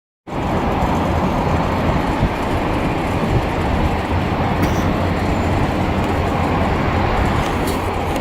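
Steady rumbling noise of jet aircraft engines, starting suddenly just after the start.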